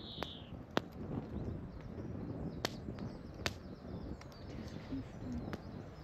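Wood campfire crackling: irregular sharp pops and snaps, about eight of them, over a low steady rushing.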